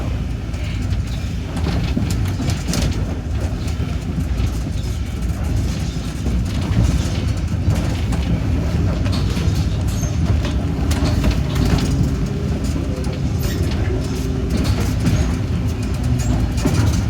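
Train running along the track, heard from on board: a steady low rumble with scattered clicks and rattles.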